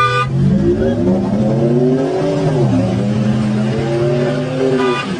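A car engine revving up, its pitch rising for about two seconds, dipping sharply, then holding steady. A car horn sounds briefly at the start and again near the end.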